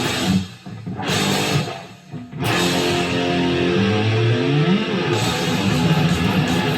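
Gibson SG Standard electric guitar with '57 Classic pickups playing a metal riff. It stops twice briefly in the first couple of seconds, then plays continuously, with a few notes sliding in pitch.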